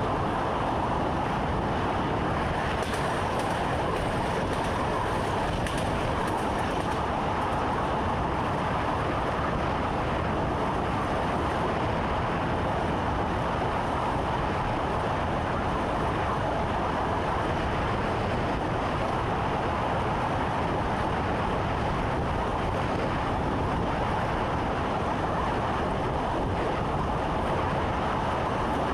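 Train running at a steady pace, heard from inside the driver's cab: a constant, even running noise with no breaks or changes.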